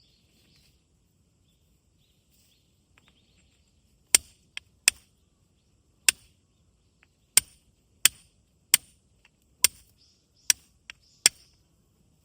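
Flint struck against a fire steel, about ten sharp, bright clicks at an irregular pace, each a quick scraping strike to throw sparks.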